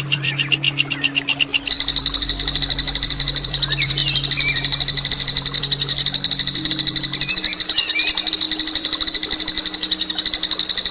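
Songbird singing a long, fast, rattling rolling trill that runs without a break, changing its pattern about two seconds in. Faint chirps of other birds and a low steady hum sit underneath.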